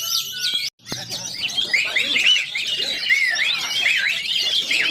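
Many caged songbirds singing at once in a dense chorus of overlapping chirps and whistles, as at a bird-singing contest with a full row of competing birds. The sound cuts out for a moment less than a second in.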